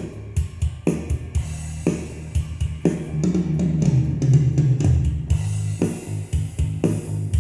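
Multitrack playback of a band's drum kit with the bass guitar brought up in the mix. Kick, snare and cymbals keep a steady beat while the bass plays a descending run in the middle.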